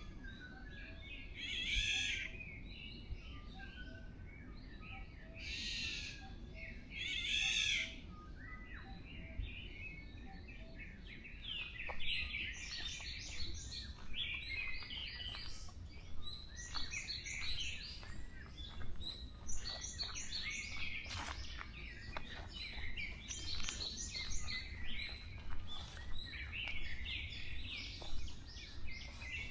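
Forest songbirds calling and singing: a few loud, harsh calls in the first eight seconds, then from about twelve seconds in a busy chorus of quick, high twittering notes. A steady low rumble runs underneath.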